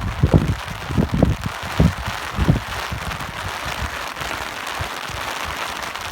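Steady rain hiss with wind gusting. Low rumbling blasts of wind on the microphone come several times in the first couple of seconds, then ease.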